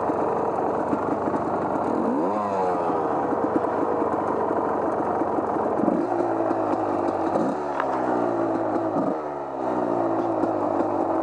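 Off-road vehicle engine under throttle. It is revved up sharply about two seconds in, and again three times in the second half, each time falling slowly back in pitch.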